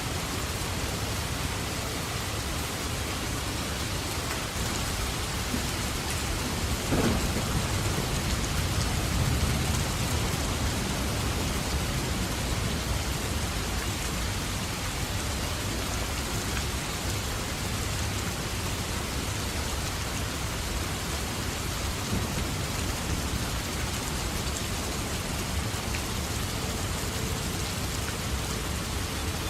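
Steady rain falling, with a clap of thunder about seven seconds in that rumbles on for a few seconds.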